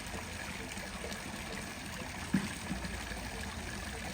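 Water trickling steadily, with a brief faint pitched sound a little over two seconds in.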